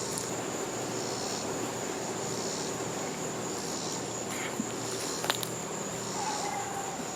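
Evening insect chorus of crickets: a steady high trill, with a higher layer that comes and goes about every second and a half. A couple of faint clicks sound about five seconds in.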